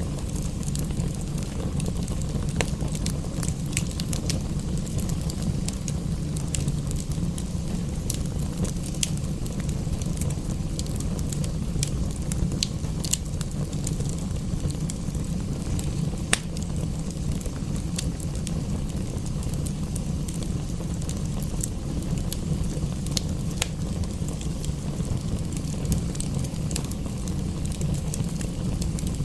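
Wood fire crackling, irregular sharp pops and snaps over a steady low rumble, mixed with the even hiss of rain.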